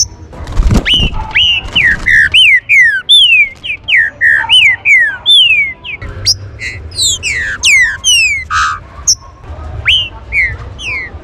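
Green-winged saltators (trinca-ferro) giving a rapid stream of short whistled notes, most sliding down in pitch, overlapping as from several birds at once. A brief low thump sounds just under a second in.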